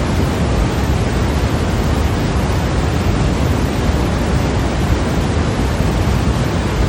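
Continuous electronically generated sleep noise: an even, unchanging rushing hiss, heavier in the low end than the top.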